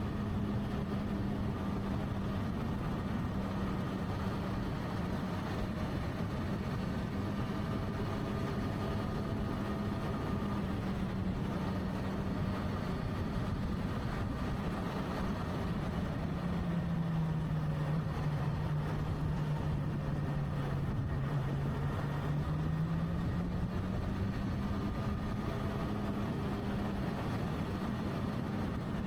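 Motorcycle engine running steadily under way. Its note drops to a lower pitch about halfway through, holds for several seconds, then rises again.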